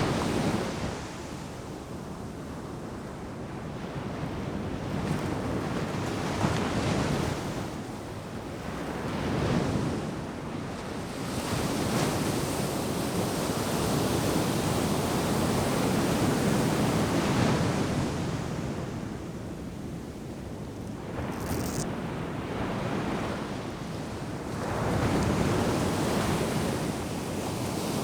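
Ocean surf breaking and washing up the beach, swelling and easing in several surges every few seconds.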